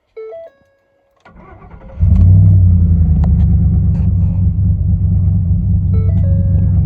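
2010 Ford F-150's V8 cranked over by the starter, catching about two seconds in and then idling loudly and steadily through the exhaust. A short electronic chime sounds just before the start and again near the end.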